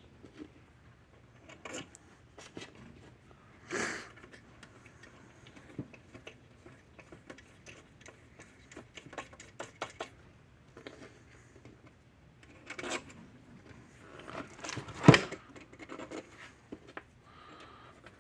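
Small metal parts clicking and tapping as bolts and nuts are fitted by hand to a fence charger's transformer mounting, with one sharper knock about fifteen seconds in.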